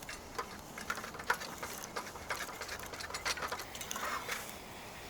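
Burning wood and embers crackling and knocking in a campfire, with irregular sharp clicks as glowing pieces are picked up with tongs and set onto the Dutch oven's lid.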